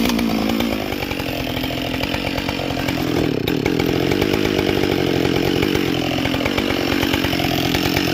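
Husqvarna 572 XP two-stroke chainsaw fitted with a carbide chain, held at a steady, lowered engine pitch under load as it cuts through wood, with a rasping cutting noise over the engine note.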